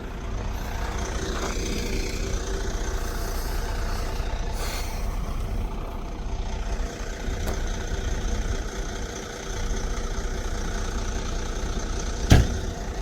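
Heavy truck engine running steadily, with a sharp bang near the end.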